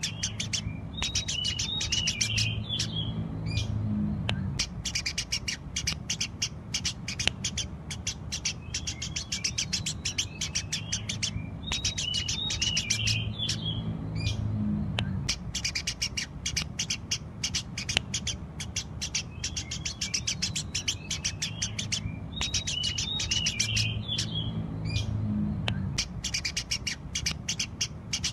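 Eurasian tree sparrows chirping rapidly and without pause, many short chirps overlapping. A busier burst of chirping comes back about every eleven seconds, over a low hum.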